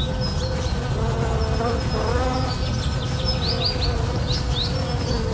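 Bees buzzing in flight: a steady, wavering hum. A few short high chirps come through about three to four and a half seconds in.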